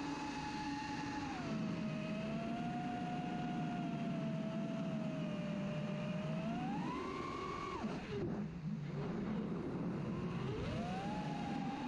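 FPV racing drone's motors and propellers whining, the pitch following the throttle: it rises about seven seconds in, drops sharply a second later, then climbs back.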